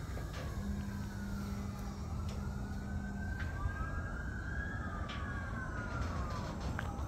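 Freight cars of a manifest train rolling past with a low rumble and scattered wheel clicks, while a siren wails, slowly rising and falling in pitch.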